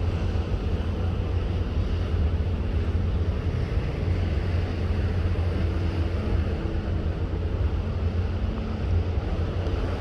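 Steady low rumble of a ship underway at sea, with a constant wash of wind and water noise over it.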